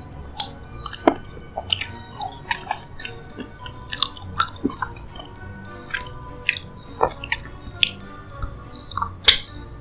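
Close-miked chewing of a soft, sticky dessert: irregular wet mouth clicks and smacks, with the loudest near the end, over soft background music.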